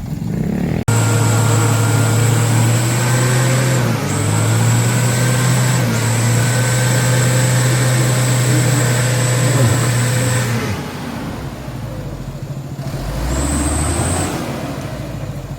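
Mitsubishi Canter HD truck's diesel engine running hard at high revs under a heavy load, with a high thin whine over its steady drone. It dips briefly twice, then eases off, and revs up briefly once more near the end.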